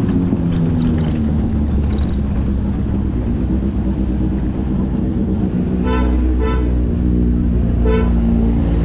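Motorcycle engine running steadily on the road, with a vehicle horn honking three short times about six seconds in, just after, and near the end.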